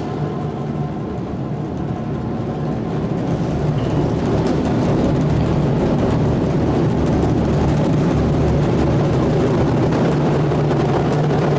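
Ensemble of wadaiko (Japanese taiko drums) playing a dense, continuous passage of rapid strokes that blend into a steady rumble, growing a little louder about four seconds in.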